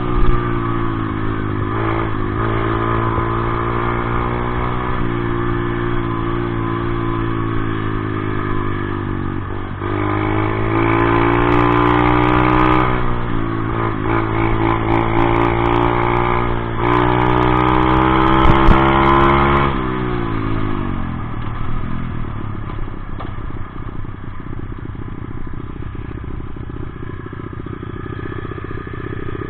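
Dirt bike engine running under throttle, its pitch dipping and climbing several times. It rises steadily through the middle, then drops off about two-thirds in to a rougher, quieter rumble.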